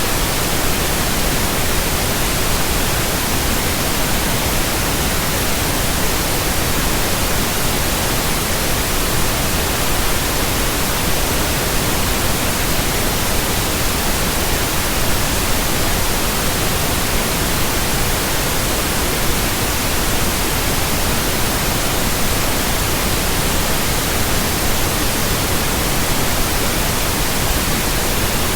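Steady, unchanging pink noise: an even hiss spread from the lowest to the highest pitches, with no breaks.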